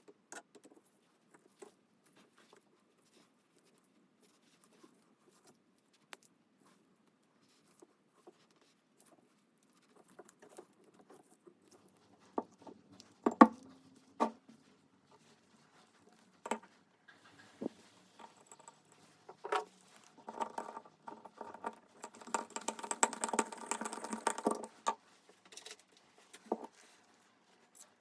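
Handling noises: scattered light clicks and knocks, a sharper knock about halfway through, then a few seconds of dense rattling and scraping near the end. There is no machine running.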